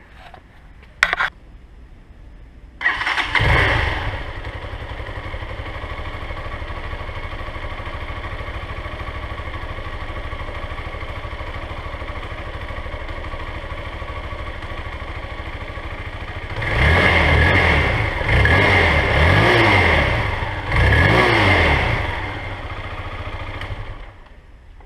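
Brozz 250 dual-sport motorcycle's counterbalanced single-cylinder four-stroke engine starting about three seconds in and idling steadily. It is revved three times, rising and falling, then settles and stops shortly before the end. It is being run to circulate fresh oil just after an oil change.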